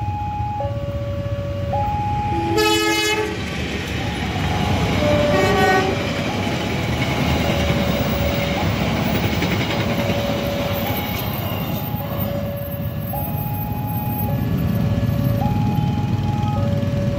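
A level-crossing warning alarm keeps alternating between a higher and a lower electronic tone, about a second each. Over it a passing passenger train sounds its horn twice: a longer blast about two and a half seconds in, then a shorter one a few seconds later. The train's rumble rises with the horn and fades off in the second half.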